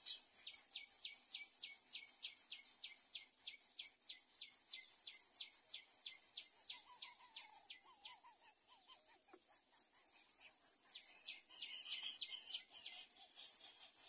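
A bird chirping rapidly: a run of high, falling chirps, about three a second, that stops around eight seconds in and comes back briefly near the end, over a steady high insect-like buzz.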